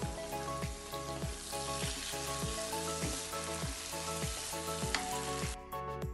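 Okra masala frying and sizzling in a wok, a steady hiss that cuts off suddenly about five and a half seconds in, over background music with a steady beat.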